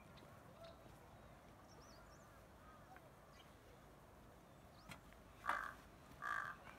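Faint bird chirps, then two short, harsh bird calls near the end, the louder one about five and a half seconds in.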